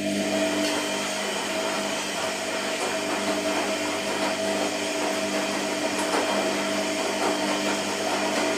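Washing machine motor running with a steady hum of several tones under a rushing noise, coming on right at the start.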